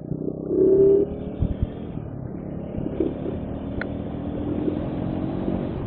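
Bajaj Pulsar motorcycle engine running while riding, its note rising briefly in the first second and then holding steady.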